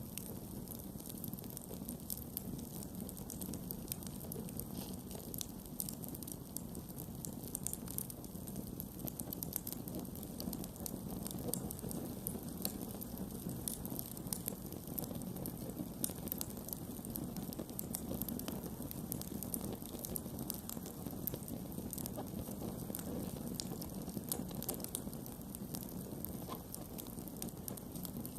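Campfire burning steadily, with frequent small sharp crackles and pops from the wood over a low rumble of flame.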